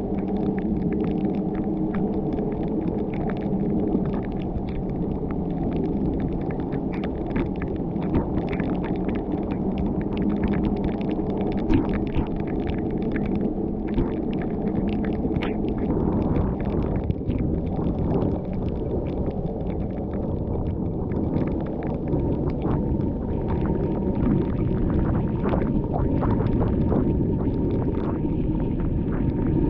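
A car driving: a steady rumble of engine and tyres, with frequent short ticks and taps over it.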